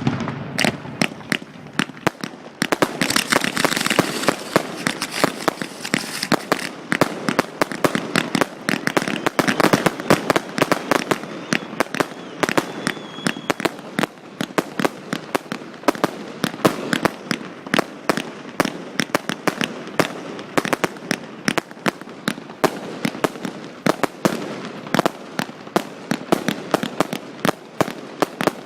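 Fireworks display: a dense, continuous barrage of sharp bangs and crackling reports, several a second, with a stretch of added hiss about three to six seconds in.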